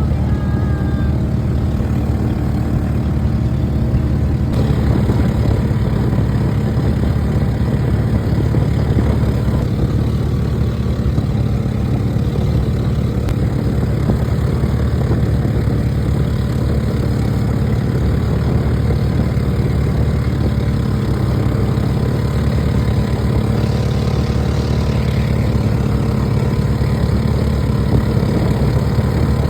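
An engine running steadily with a low, even drone that holds the same pitch throughout.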